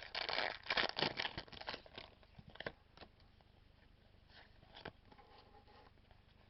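Foil wrapper of a Pokémon XY Phantom Forces booster pack crinkling and tearing as it is opened, a dense crackle for about the first three seconds, then a few softer rustles.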